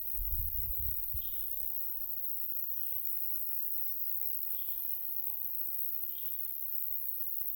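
Summer meadow ambience: a steady high-pitched chirring of insects, with a short call repeated about every second and a half that is typical of a bird. Low wind rumble on the microphone fades out after the first second.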